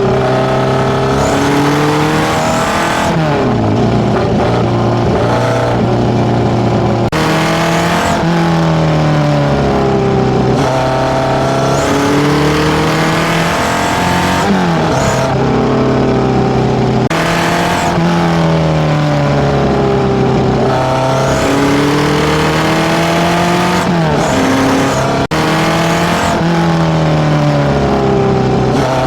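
Tuned Nissan A15 four-cylinder engine breathing through FCR41 carburettors and a one-off 54 mm stainless exhaust, its revs rising and falling over and over. The sound breaks off abruptly and picks up again every few seconds.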